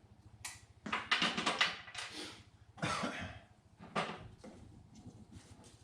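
Irregular knocks, clicks and scraping from handling tools and pipe-strap hardware while fastening plumbing pipe at close range. A quick run of clicks comes about a second in, and single knocks follow near three and four seconds.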